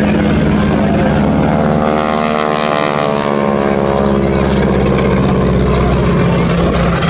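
A propeller aircraft flying past at an air display, with a steady engine drone. The sound takes on a sweeping, phasing quality as it passes about two to three seconds in.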